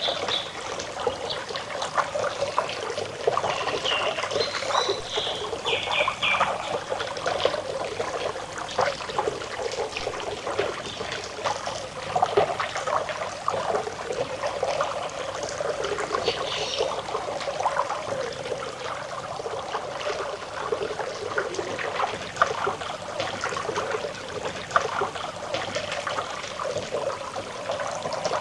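Water trickling and babbling over stones in a stream, a steady bubbling flow, with a few brief high bird chirps a few seconds in and again about halfway through.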